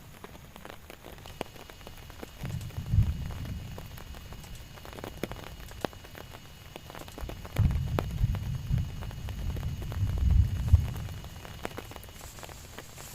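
Rain falling steadily, with many individual drops ticking sharply. Two spells of low rumbling come in, about three seconds in and again from about seven and a half to eleven seconds.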